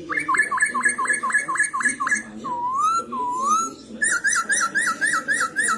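Black-throated laughingthrush (Poksay Hongkong) singing loud whistled phrases. First a fast run of sharply rising notes, then two slow swooping whistles, then about four notes a second from about four seconds in.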